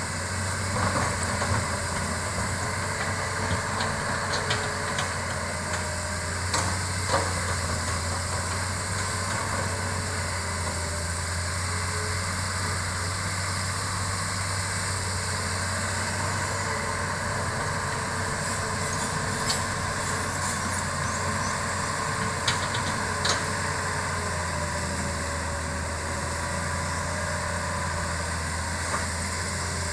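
Hitachi hydraulic excavator's diesel engine running steadily with a low, even hum, with a few short sharp knocks and clacks scattered through.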